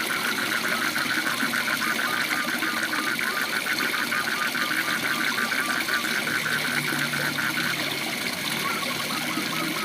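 Waterfall rushing steadily, with a frog calling in a fast, even run of short repeated notes that breaks off about eight seconds in and starts again near the end.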